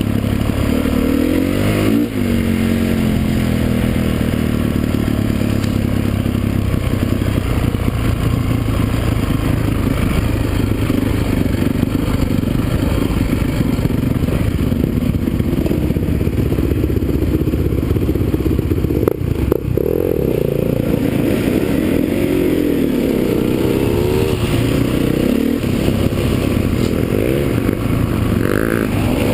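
Motocross motorcycles racing, their engines revving up and falling off again and again as they run around the track.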